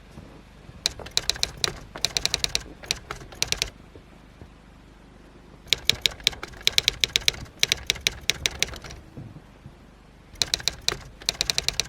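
Typewriter keys clacking in quick bursts of rapid strokes, about eight a second, with short pauses between the bursts.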